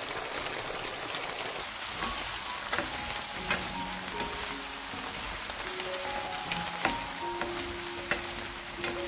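Tofu and vegetables sizzling in sauce in a frying pan, stirred with a wooden spatula that gives occasional sharp clicks against the pan. Soft background music of single held notes comes in about two seconds in.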